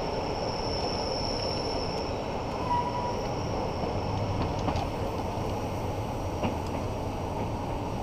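Rhaetian Railway train on the Bernina line running along the track, heard from a passenger carriage: a steady rumble of wheels and carriage, with a thin high squeal that fades out about two seconds in and a few faint clicks.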